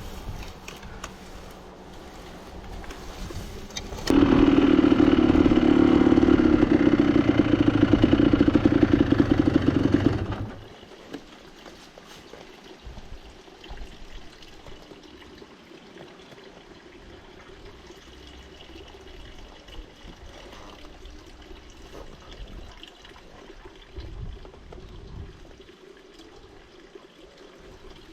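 Water from a village fountain spout pouring and splashing. It is loud for about six seconds starting about four seconds in, then drops to a quieter steady running.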